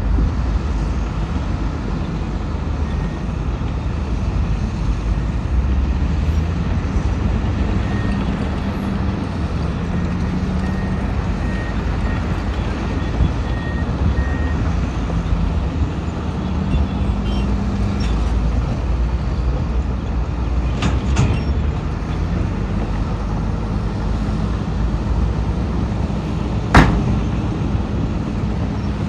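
Heavy diesel earthmoving machinery (bulldozer and dump trucks) running under load, a steady low rumble whose engine pitch rises and falls. A faint high intermittent beeping sounds in the first half, and there is a single sharp bang near the end.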